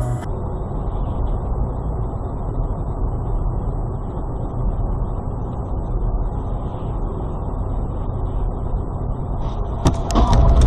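Car driving: steady low road and engine rumble. Near the end, sharp knocks and louder noise set in.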